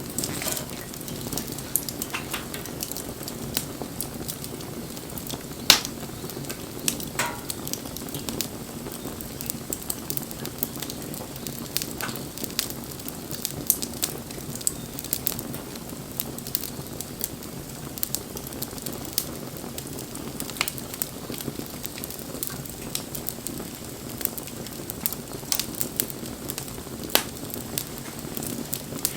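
Wood campfire burning: a steady hissing bed with frequent sharp crackles and snaps of burning wood, a louder pop about six seconds in.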